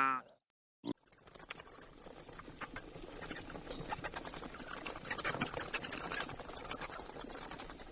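Rapid, high-pitched chirps from a small animal, starting about a second in and running on in quick pulses.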